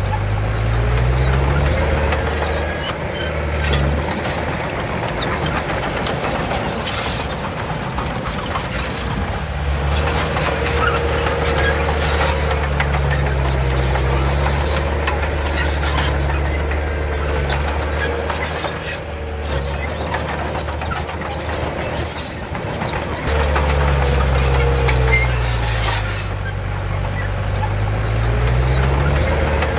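Komatsu D31 bulldozer's diesel engine working under load, its pitch rising and falling several times as the load changes, with a wavering squeal from the running gear.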